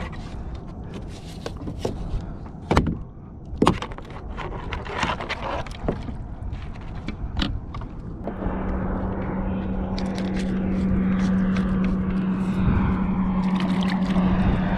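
Scattered clicks and knocks of handling, then about eight seconds in a steady motor hum with a hiss starts up abruptly and keeps going.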